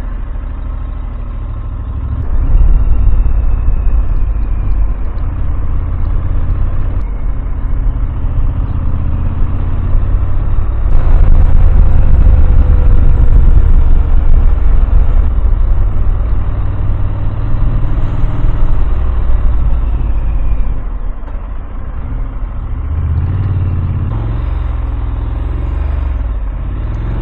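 Motorcycle riding along at speed: heavy wind rushing over the microphone, low and loud, with the bike's engine beneath it. It grows louder about two seconds in and again around eleven seconds, then eases off near twenty-one seconds.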